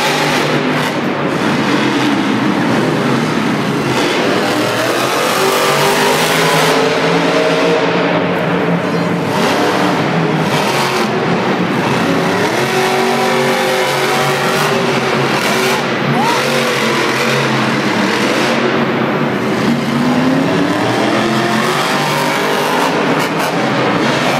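Monster trucks' supercharged V8 engines revving hard, their pitch rising and falling again and again through the whole stretch, over a dense wash of arena noise.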